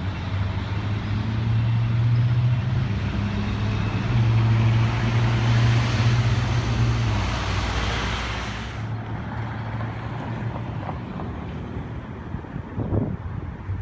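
Motor engine running with a steady low hum, loudest in the first half; the higher hiss drops away suddenly about nine seconds in.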